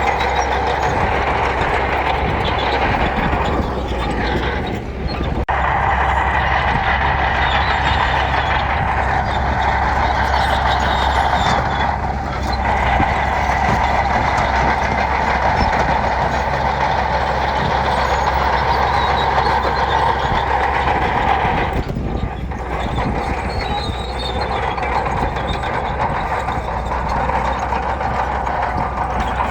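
Heavy diesel earthmoving machinery running steadily under load, with a low rumble and a strong mid-pitched drone. The sound eases briefly three times, about 5, 12 and 22 seconds in.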